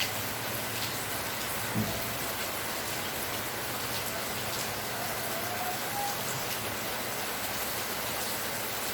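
Steady rain falling: an even hiss with scattered drops. A single low thump about two seconds in.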